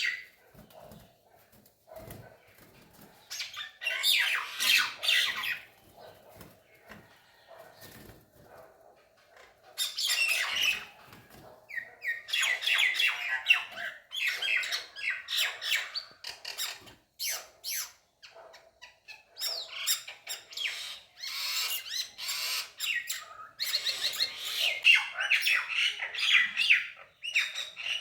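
Birds fighting, squawking in rapid, harsh bursts of calls that come in spells of a few seconds with short lulls between, busiest and most continuous in the second half.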